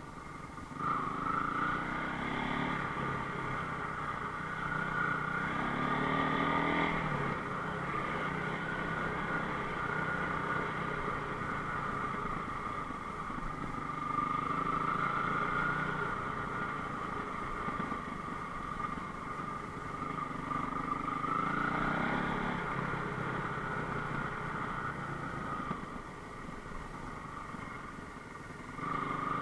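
Enduro motorcycle engine running under load, its revs rising and falling repeatedly as the throttle is worked. The engine drops back and eases off near the end, then picks up again.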